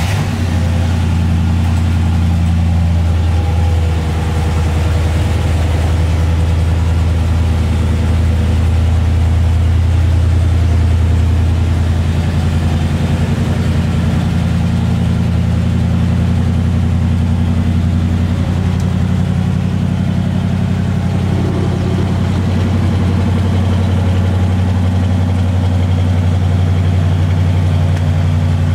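1966 Chevrolet Chevelle SS's 396 big-block V8 idling steadily through its dual exhausts.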